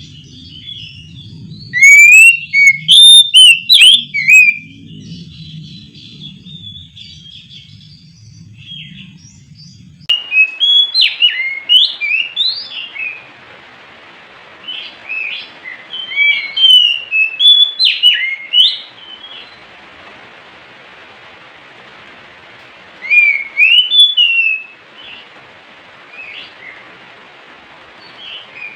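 Oriental magpie-robin (kacer) singing in loud bursts of rapid, varied whistles and chirps, separated by pauses of a few seconds.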